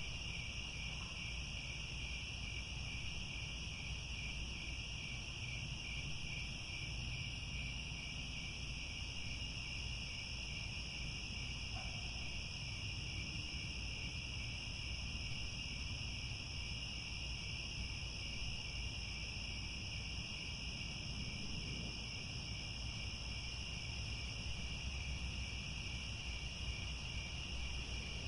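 A chorus of crickets trilling steadily and without a break, high-pitched, with a faint low rumble underneath.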